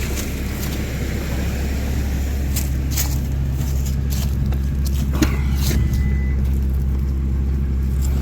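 Car engine idling steadily, with a few sharp clicks and knocks from parts being handled about a third of the way in and again past the middle.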